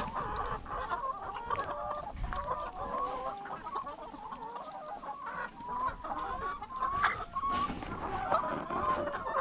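A flock of laying hens clucking, with many short calls overlapping throughout.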